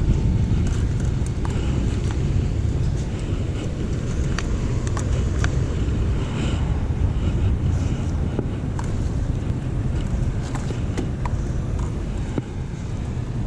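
Steady low outdoor rumble, like road traffic, with scattered light clicks and ticks.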